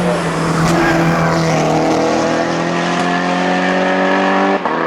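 Race car engine under hard acceleration, its pitch climbing steadily through one gear, then a quick gear shift near the end.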